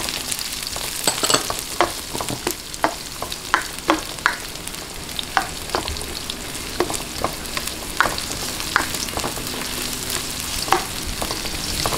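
Minced garlic and sliced onion sizzling in hot oil in a nonstick wok, with irregular scrapes and taps of a spatula stirring them.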